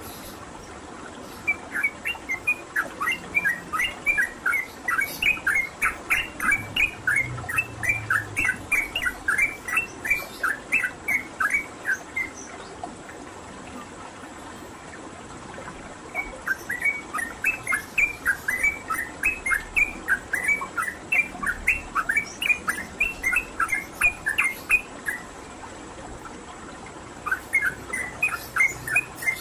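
Yellow-vented bulbul (trucukan) singing loud, rapid chattering phrases of short falling notes, several a second. It sings in three long runs, breaking off for a few seconds about twelve seconds in and again near twenty-five seconds.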